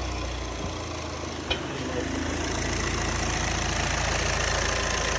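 A 2012 VW Passat's four-cylinder diesel engine idling steadily, now that it starts and runs on four new fuel injectors replacing ones clogged by shavings from a failed high-pressure fuel pump. A single click comes about a second and a half in.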